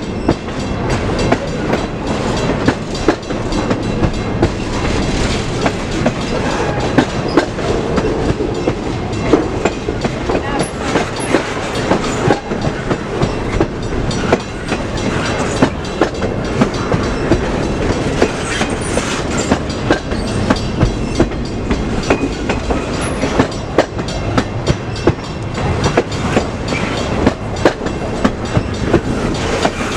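A train rolling past with its wheels clicking over the rail joints: a steady rumble with many sharp clacks throughout.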